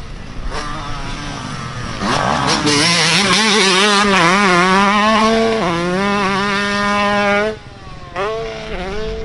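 Dirt bike engine revving hard, its pitch rising and wavering as the throttle is worked and dropping a step about halfway. The throttle is chopped about three-quarters of the way in, then there is a short blip of revs near the end.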